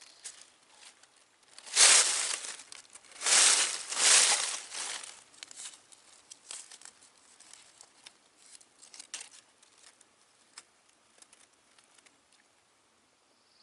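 Close rustling and crinkling in three loud bursts about two to four and a half seconds in, followed by scattered light clicks and ticks that die away near the end.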